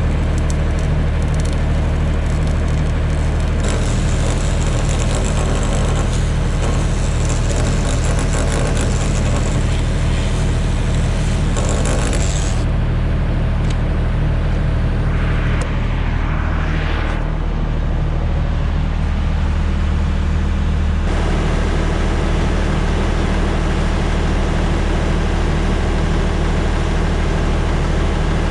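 Arc welding crackle over a steady engine hum, the crackle stopping about halfway through while the engine runs on.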